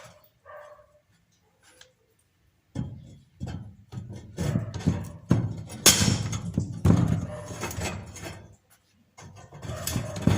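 Steel rods being cut with a large bolt cutter and knocked into place in an angle-iron grill frame. After a couple of seconds of quiet come irregular clanks, knocks and scraping of metal, with sharp hits about six seconds in and near the end.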